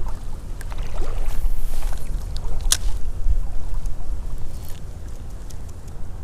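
Creek water running, with a steady low rumble of wind on the microphone and a brief tick about three seconds in.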